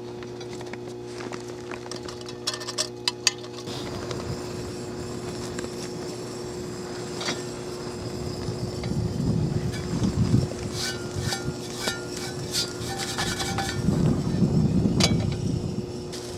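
Camp cookware clinking and knocking, with handling and rustling, over a steady electrical hum from a transformer. A group of sharp knocks comes about three seconds in, and louder rustling comes twice in the second half.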